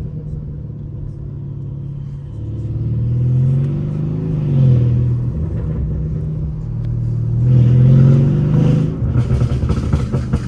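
Mercedes CLS550's twin-turbo V8, with downpipes and a straight-piped exhaust, accelerating. The engine note climbs, drops sharply at an upshift a little before halfway, climbs again, then turns choppy near the end.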